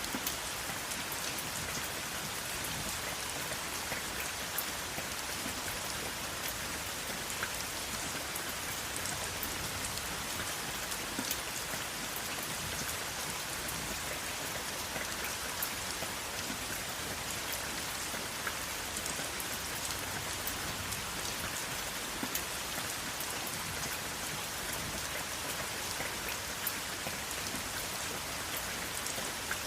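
Steady rain falling, an even hiss with scattered individual drop ticks, and no thunder.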